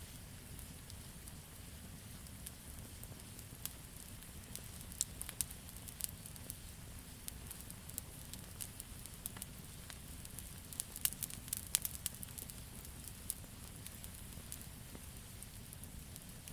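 Wood campfire burning, crackling with irregular sharp pops over a steady low rumble and hiss; the pops come in thicker clusters about five seconds in and again around eleven to twelve seconds.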